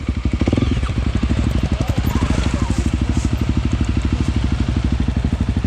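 Honda CRF300L single-cylinder engine running steadily at low revs, a rapid even thumping of about a dozen beats a second.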